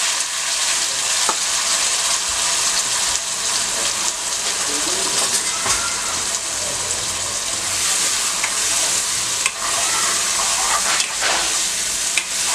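Green masala paste of ground coriander, green chillies, garlic and dried coconut sizzling in hot oil in a kadhai, a steady frying hiss with small crackles. Near the end a spoon starts stirring it.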